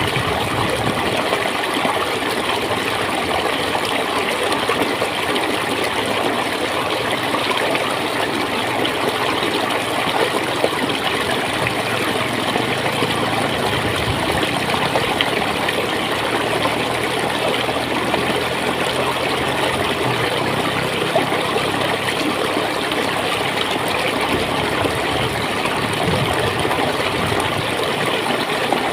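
Clear stream water flowing and gurgling steadily.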